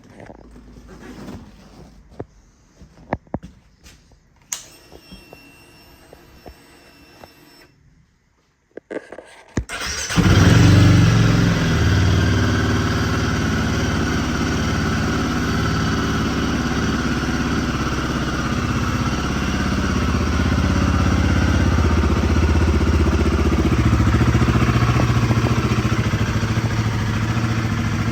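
Royal Enfield Guerrilla 450's 452cc single-cylinder engine starting about ten seconds in, after a few faint clicks, then idling steadily.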